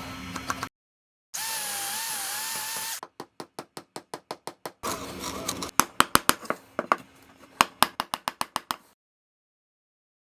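Short edited-together bursts of workshop tool noise. First comes a brief power-tool whine that wavers in pitch. Then a run of rapid even clicks about six a second, then sharp irregular clicks and knocks, and the sound cuts off to dead silence about a second before the end.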